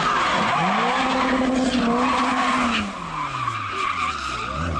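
Rally car engine revving hard: the revs climb in the first second, hold high for about two seconds, then fall away, over the hiss of tyres sliding on the surface.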